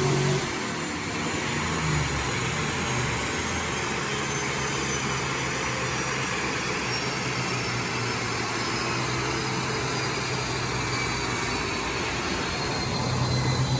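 Turbo 5.2 Magnum V8 Dakota on a chassis dyno just after a pull: the engine revs drop away at the start, then a steady rumble as the wheels and dyno roller coast down, with a faint high whine slowly falling in pitch.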